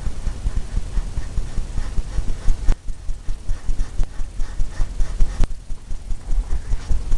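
Stiff-bristle brush scrubbing and tapping oil paint onto a stretched canvas: rapid, irregular strokes with dull thumps from the canvas, a little lighter for a moment about three seconds in.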